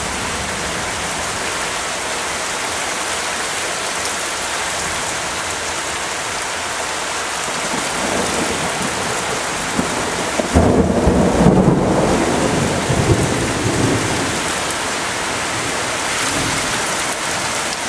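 Thunderstorm: steady heavy rain hissing down, with a loud rumble of thunder about ten seconds in that rolls on for a few seconds and fades.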